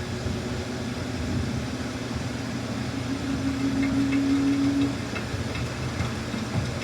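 Samsung front-loading washing machine running with a steady low rumble from the drum. About three seconds in, a motor hum rises slightly in pitch, then cuts off a little before five seconds, as on a first attempt to spin up.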